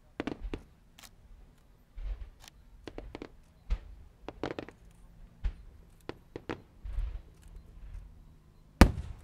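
Fireworks going off: scattered, irregular bangs and pops, with the loudest bang near the end.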